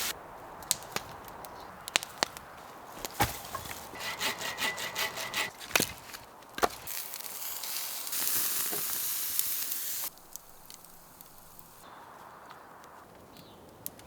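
Firewood being worked: sharp cracks and knocks of wood, a quick run of rasping strokes, and a stretch of rough scraping, in several short edited pieces.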